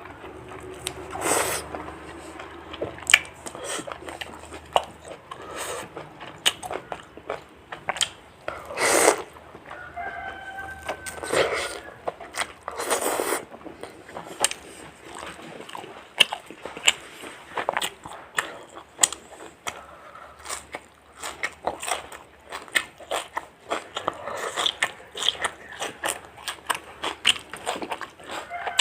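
Close-up eating sounds of crisp fried chicken: repeated biting, crunching and chewing, with a few louder crunches.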